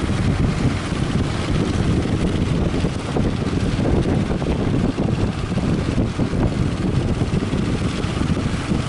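Strong wind buffeting the microphone over the steady rush of surf.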